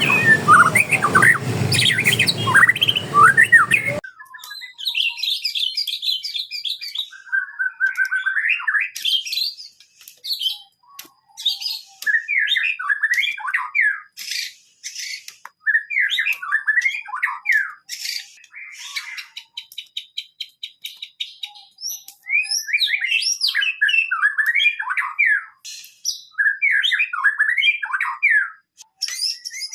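Songbirds singing in varied, quick whistled phrases with chattering and a fast ticking trill about two-thirds of the way through. For the first few seconds the song sits over busy background noise, then the noise cuts off suddenly and only the birdsong remains.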